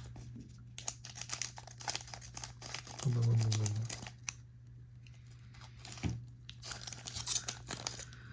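Foil booster pack wrappers crinkling and tearing as trading card packs are opened and handled, in irregular crackles. A brief hummed note about three seconds in, over a steady low hum.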